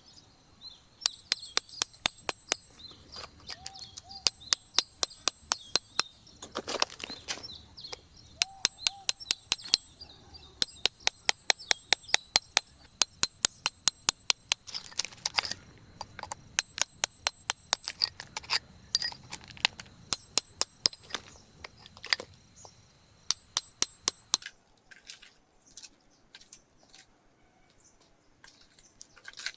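Runs of sharp, hard clinking taps, several a second, with short pauses between runs; they thin out to scattered taps for the last few seconds. A faint, steady high whine underneath stops about two-thirds of the way through.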